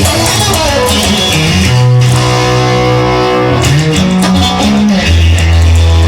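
Blues-rock guitar playing an instrumental passage without vocals: held chords ringing over sustained bass notes, the bass note changing about two seconds in and again near the end.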